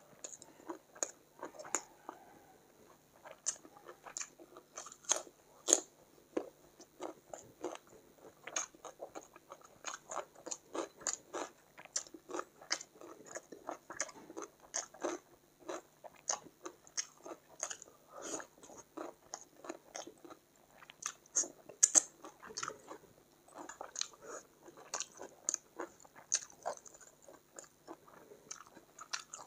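Close-miked eating sounds of chicken curry and rice eaten by hand: a steady, irregular stream of wet mouth clicks, chewing and small crunches, several a second, with a louder cluster of crunches about two-thirds of the way through.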